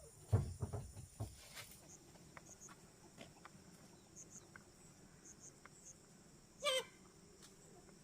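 A few dull knocks in the first second and a half, then faint, short, high insect chirps, and one brief wavering call from a farm animal near the end.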